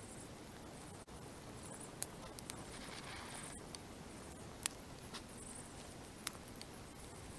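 Faint campfire crackling, with a few sharp pops scattered through it over a low steady hiss. A faint high chirping comes and goes every second or two.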